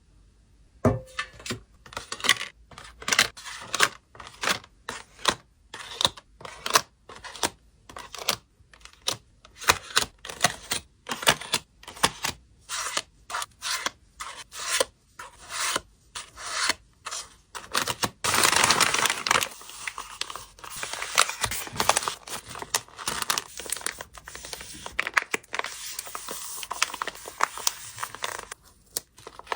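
Packing materials being handled by hand: a long run of short crinkling and rustling strokes with some tearing. About 18 s in, a longer, continuous stretch of crinkling lasts a few seconds.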